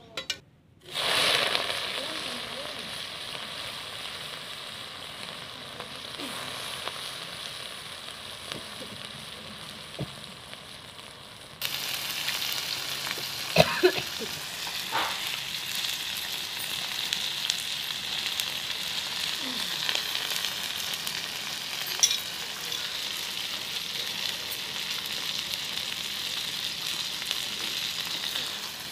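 Sliced onion and green chilli sizzling as they fry in hot oil in a metal kadai. The sizzle starts suddenly about a second in and grows louder and brighter about a third of the way through, with a few sharp knocks of a utensil against the pan.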